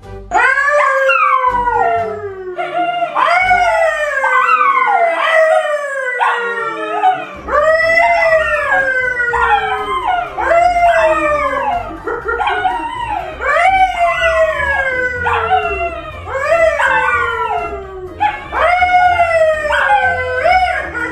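A dog howling over and over, about a dozen howls in a row. Each howl jumps up in pitch and then slides slowly down, and some start before the last has faded.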